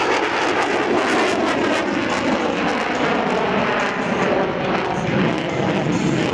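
Jet noise of a US Navy F/A-18 Super Hornet flying a display pass, loud and steady.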